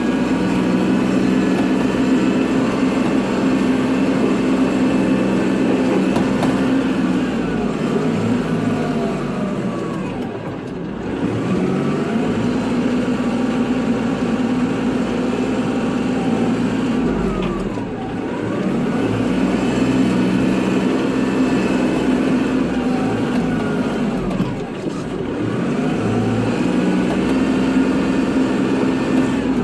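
Kubota tractor's diesel engine running steadily while plowing snow, with a higher whine that falls and rises again about every seven seconds as the tractor slows, changes direction and pulls away.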